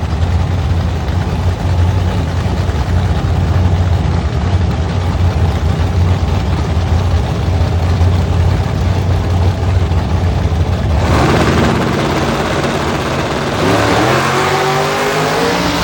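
Drag car engines: a loud, steady low-pitched idle, then about eleven seconds in a louder, harsher engine note comes in and rises in pitch as a car revs and accelerates.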